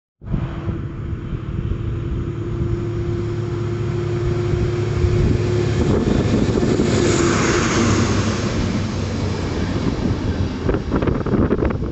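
Train passing, with a steady low hum and a higher tone, building to a loud rush about seven seconds in, then easing. Wind buffets the microphone near the end.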